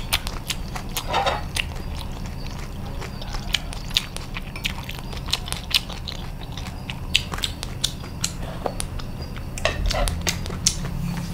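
Close-miked chewing of bột chiên (fried rice-flour cake with egg): a steady run of irregular crisp, wet mouth clicks.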